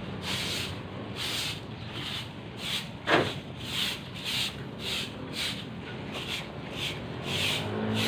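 Broom sweeping a floor in steady strokes, about two a second. A brief sharp sound stands out about three seconds in.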